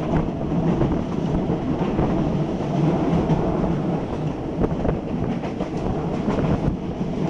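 Passenger train running uphill, heard from inside a carriage at an open window: a steady rumble of wheels on rails, with scattered sharp clicks that come more often in the second half.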